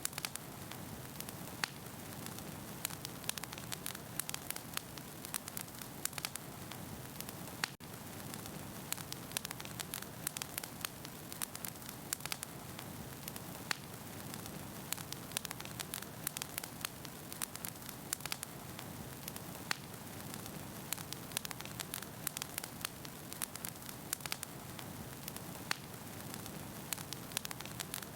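Wood fire burning in a fireplace, with frequent sharp crackles and pops of burning firewood over a steady low rush of flame.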